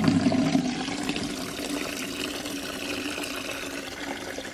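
Water running from a rain barrel's spigot into a bucket as it fills, a steady pouring rush that grows gradually quieter.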